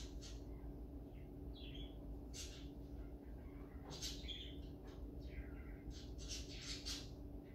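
Faint bird chirps and short calls scattered through, several in quick succession about six to seven seconds in, over a steady low hum.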